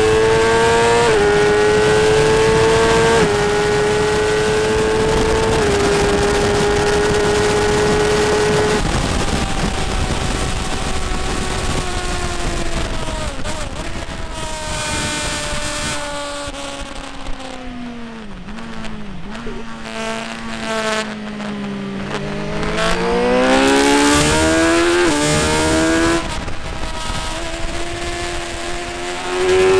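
Motorcycle engine running at high revs on a race circuit. The note holds high with a couple of small steps, falls steadily from about nine seconds in as the bike slows, and sits low for a few seconds. From about twenty seconds it climbs again, with a shift near the end, over a constant rushing noise.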